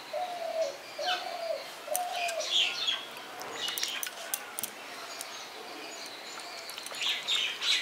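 Birdsong: a dove cooing three short notes in the first few seconds, with small birds chirping throughout and a cluster of chirps near the end.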